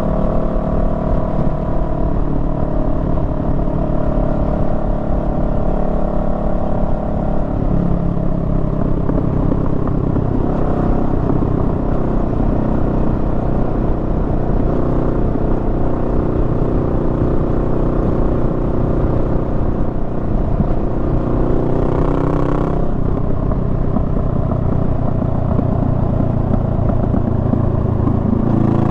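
Honda Rebel 500's parallel-twin engine running while riding, its pitch rising and falling with the throttle. The engine note climbs and then drops sharply about two-thirds of the way through.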